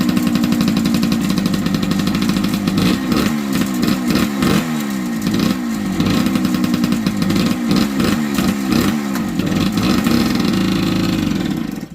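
1978 Yamaha DT100's two-stroke single-cylinder engine running and revving up and down again and again, as on throttle blips or gear changes while ridden. The sound cuts off suddenly near the end.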